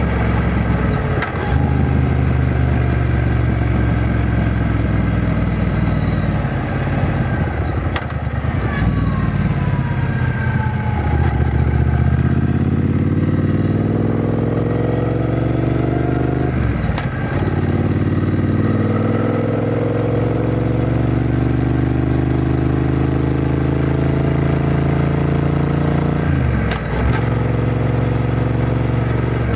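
Triumph Bonneville T120's 1200 cc parallel-twin engine running under way and pulling through the gears: its pitch climbs steadily within each gear. There are brief breaks at the gear changes, about four times.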